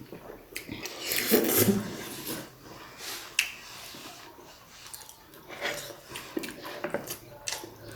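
Close-miked chewing of a big momo dumpling bitten whole: wet smacking and short mouth clicks, louder about a second in.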